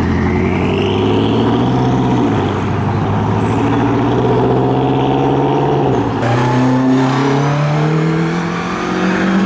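A performance car's engine accelerating hard through the gears. The revs climb, drop sharply at an upshift about two seconds in and again about six seconds in, then climb once more.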